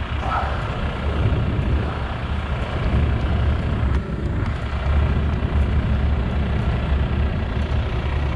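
Heavy truck's diesel engine running steadily with a low rumble.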